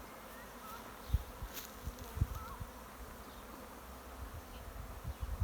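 A disturbed bee swarm buzzing as many bees fly about, busy and agitated, with a few soft low thumps.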